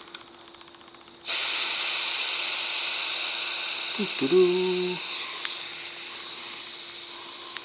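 Air hissing out of a Honda CT110's front tyre through the valve stem as the tyre is deflated, starting about a second in and slowly fading as the pressure drops.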